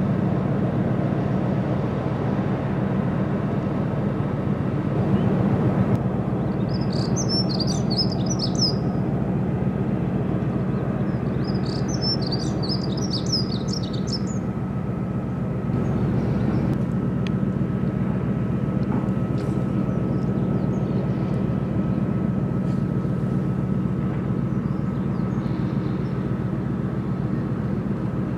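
Steady low drone of a boat's engine running, with two short bursts of small-bird chirping partway through.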